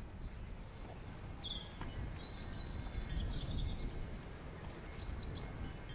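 Small songbirds chirping, in quick runs of three or four high notes every second or so, over a steady low outdoor rumble.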